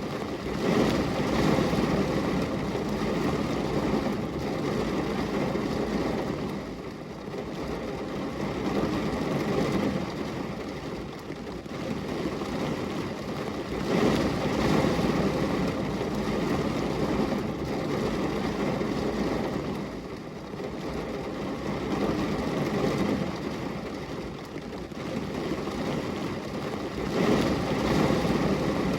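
Rain falling on a glass window: a dense, steady hiss with a low rumble that swells and eases every few seconds.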